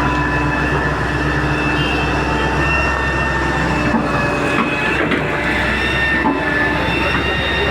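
Heavy excavator's diesel engine and hydraulics working: a loud, steady drone with a high whine over it, and a few knocks about halfway through.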